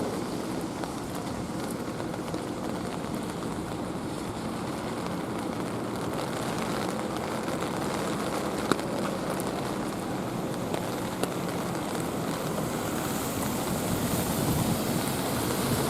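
Rainy street ambience: a steady hiss of light rain and wet traffic, with a couple of sharp clicks, growing louder in the last few seconds.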